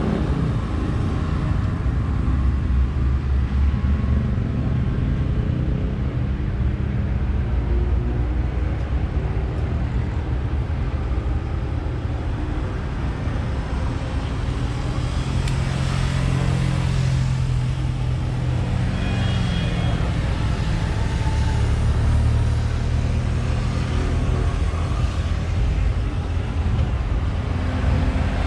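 The engine of a slow-moving tram vehicle drones steadily under way, its pitch shifting a little with speed, over a constant rush of travel and wind noise.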